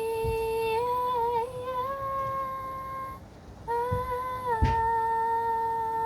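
A woman humming a slow tune in long, held notes that step up and down in pitch, with a short pause for breath about halfway through. A brief knock sounds shortly after the pause.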